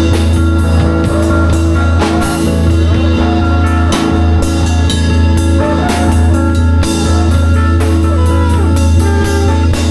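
Live band improvising: drum kit playing under sustained electric guitar notes, with a heavy bass line held underneath.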